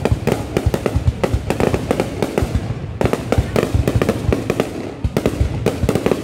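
Fireworks display: aerial shells launching and bursting in a rapid, continuous barrage of bangs, several a second.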